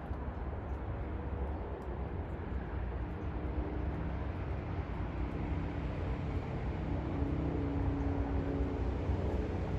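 Distant vehicle engine drone over a steady low rumble, growing a little louder in the second half.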